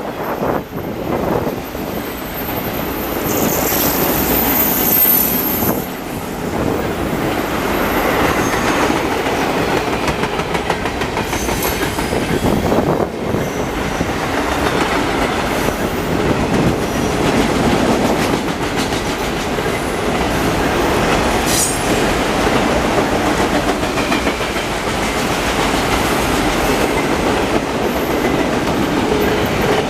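Freight cars of a long train rolling past: steady rumble and clickety-clack of steel wheels over the rails, with a brief high wheel squeal about four seconds in.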